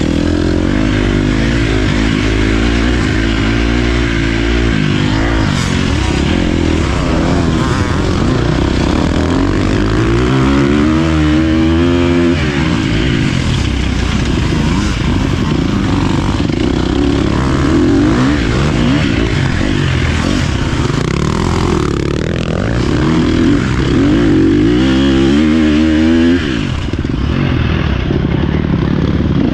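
Dirt bike engine running under load, its pitch climbing twice as the rider accelerates, once about ten seconds in and again near the end, each time dropping away suddenly as the throttle is shut or the bike shifts.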